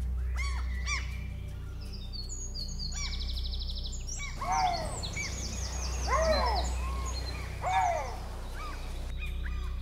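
Several birds calling over low background music: short chirps, a fast high trill a few seconds in, and three louder calls that rise and fall in pitch in the second half.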